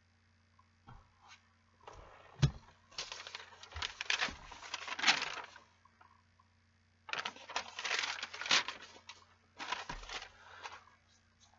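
Rustling and crinkling handling noise in three bursts, with a sharp click about two and a half seconds in, over a faint steady hum.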